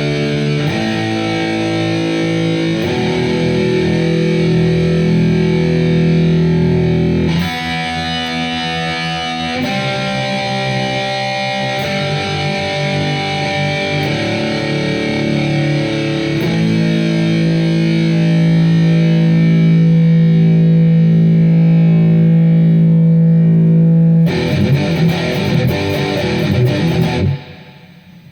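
Gibson Les Paul electric guitar played through heavy distortion: a metal riff of long ringing chords, then a fast choppy passage near the end that cuts off abruptly.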